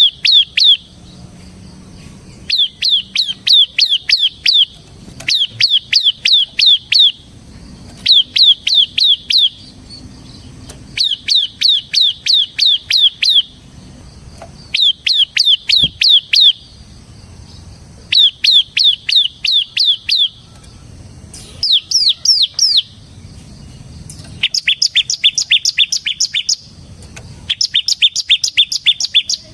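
Bar-winged prinia (ciblek) singing: phrases of quick, sharp, repeated notes, each phrase about two seconds long with short pauses between. From about two-thirds of the way through, the phrases are pitched higher.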